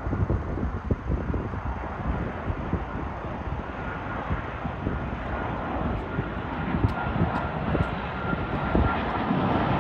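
Qantas Boeing 787-9's GEnx turbofan engines on landing approach: a steady jet rumble with a faint high whine, growing gradually louder toward the end as the airliner comes closer.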